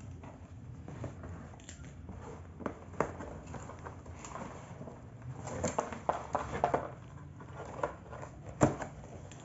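Parcel packaging being handled and opened by hand: scattered rustles, crinkles and short clicks, busiest around six seconds in, with one sharp knock near the end.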